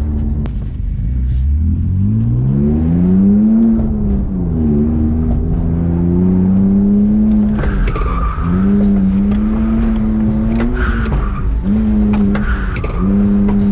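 BMW E46 drift car's engine revving hard and holding high revs, dropping briefly three times, with tyres squealing from about halfway in as the car drifts.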